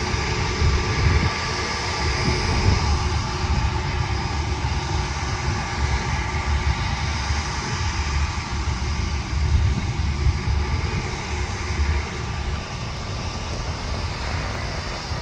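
Jet airliner engines running steadily, a whine of several steady tones over a low rumble that rises and falls unevenly.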